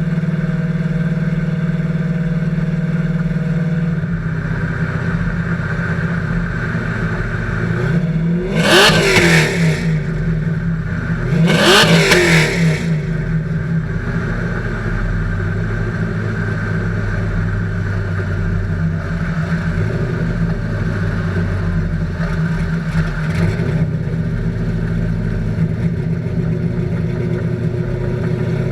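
2000 Camaro SS 5.7 L LS1 V8 idling through TSP true-dual exhaust with Flowmaster single-chamber mufflers. It is revved twice, about eight and twelve seconds in, each rev rising quickly and falling back to idle.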